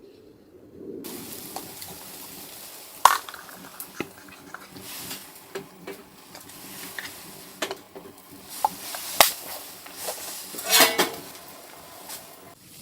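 Food sizzling in a pan, starting about a second in, while a utensil stirs and scrapes, with repeated sharp clinks of metal against the pan.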